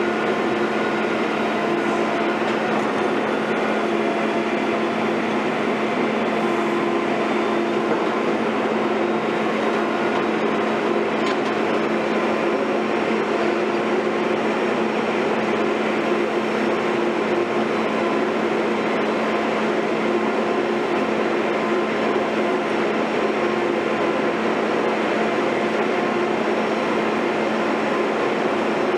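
Heavy construction machinery running steadily at constant engine speed: an even, loud droning hum with no breaks or changes.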